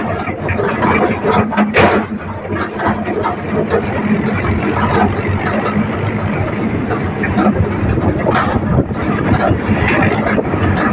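Tractor engine running steadily while riding on the tractor, with rattles and knocks about two seconds in.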